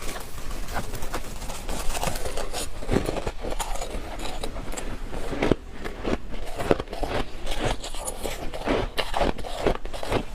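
Freezer frost being bitten and chewed close to the microphone: a dense run of irregular crunches and crackles.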